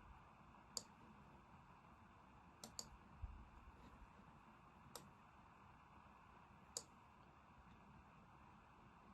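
Computer mouse clicking a few times over faint room hiss: single clicks about a second in, then around five and seven seconds, and a quick double click near three seconds, followed by a soft low bump.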